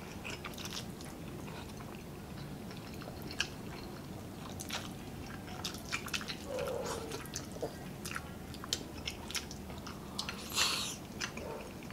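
Close-up eating sounds of spaghetti carbonara being chewed, with scattered light clicks of forks against bowls. A brief louder slurp of noodles comes near the end.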